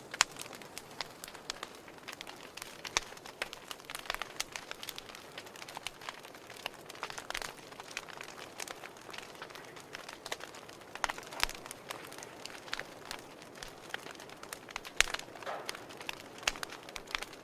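Fire crackling: a steady soft hiss broken by irregular sharp pops and snaps, a few of them louder than the rest.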